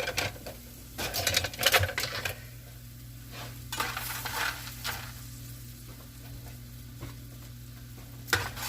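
Onions and peppers sizzling gently in a frying pan while a utensil stirs and scrapes against the pan, in short bursts. A steady low hum runs underneath.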